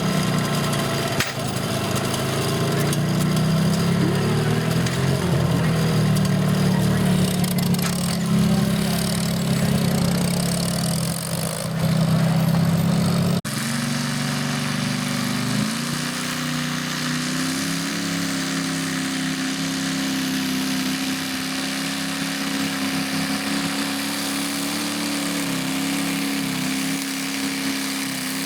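Garden tractor engine running hard, its pitch wavering as the load changes. About halfway through, the sound breaks off abruptly and an engine carries on running steadily at a higher pitch.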